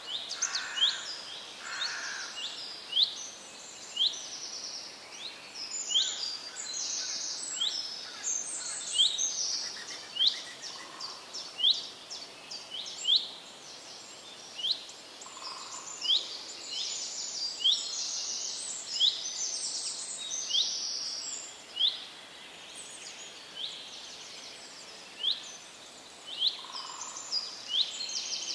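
Small birds chirping and calling busily over a steady outdoor background, with short, sharp, high chirps repeating about once a second and overlapping call phrases.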